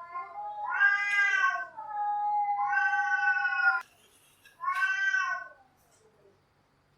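Cats yowling: a long, wavering yowl that rises and falls in pitch for nearly four seconds, then a shorter yowl about five seconds in.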